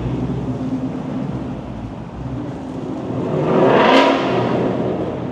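A car engine accelerating hard, swelling to its loudest about four seconds in with a short sharp crack at the peak, then fading away.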